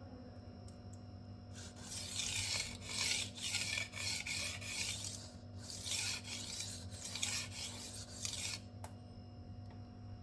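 Steel kitchen knife blade being stroked across an abrasive sharpening stone: two stretches of gritty scraping, each about three seconds long, with a short break between them.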